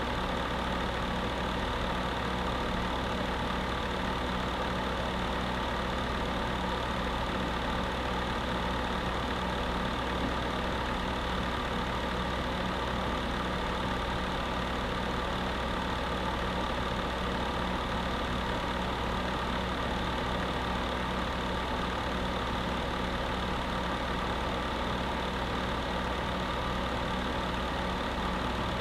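Electric space heater running steadily: an even fan-driven whoosh with a low hum and faint steady tones underneath, unchanging throughout.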